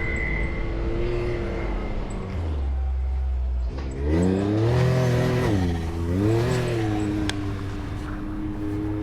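Off-road vehicle's engine running on a rock-crawling trail, dropping to a low drone for about a second, then revving up and back down twice before settling to a steady pull.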